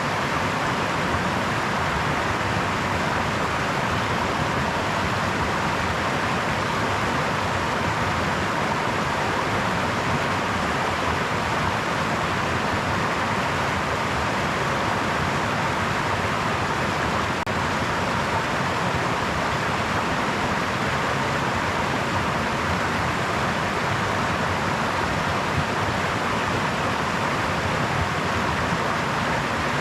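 Brook water babbling over stones, a steady even rush with no breaks.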